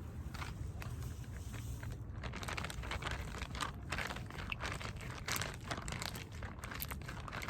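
Plastic packaging crinkling and rustling as it is handled and opened, a dense run of irregular crackles, busiest in the middle.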